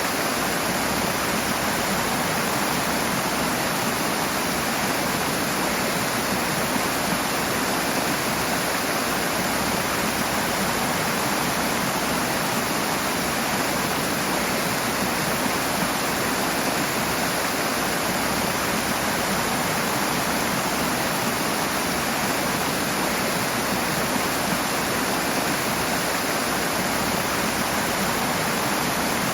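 Water rushing hard over rocks in a stream, a dense steady hiss and roar that does not change.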